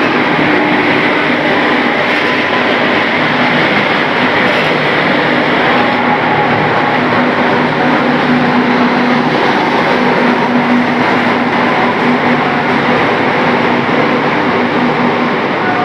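Passenger train coaches rolling past close by as the train pulls into the platform: a loud, steady rumble of wheels on rails with a steady hum underneath.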